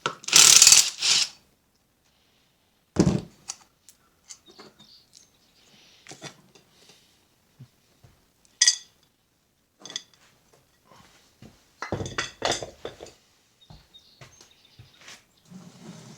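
Scattered metallic clinks, scrapes and knocks of tools and metal engine parts being handled as an old engine is taken apart. There is a noisy scraping burst right at the start, a dull knock about three seconds in, a single ringing clink a little past halfway, and a cluster of knocks near the end.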